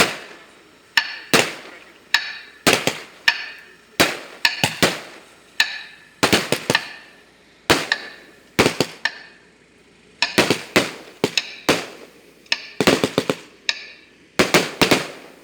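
Fireworks salute: sharp bangs going off in quick, irregular succession, sometimes in quick pairs and clusters, each with a short echoing tail.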